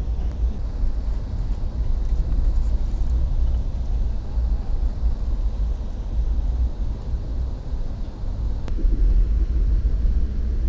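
Steady low rumble of a moving passenger train heard from inside the carriage, with one faint tick near the end.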